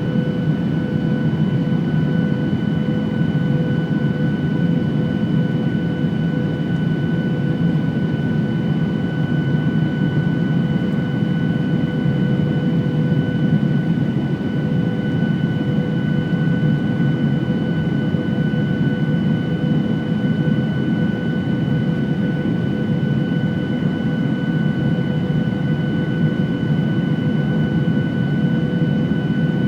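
Boeing 737-800's CFM56 jet engines running steadily: a constant low roar with a steady whine over it, neither rising nor falling.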